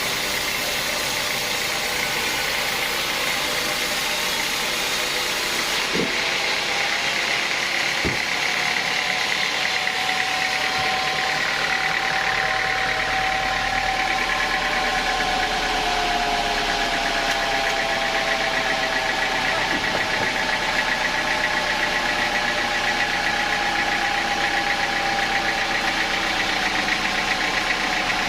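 Sawmill saw running as it cuts timber: a steady, loud machine noise with faint tones that drift slowly in pitch, and a couple of short knocks a few seconds in.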